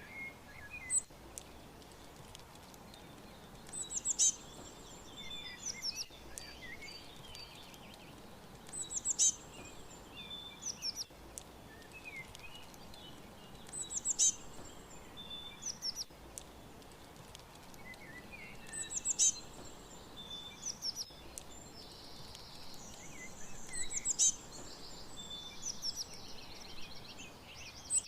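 Songbirds chirping and singing, one bird repeating a short, loud, high song phrase about every five seconds. Other chirps and a brief buzzy trill fall in between, over a faint steady background hiss.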